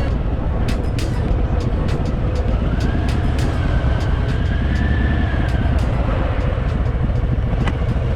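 Harley-Davidson Fat Boy's V-twin engine running on the move, a steady low rumble.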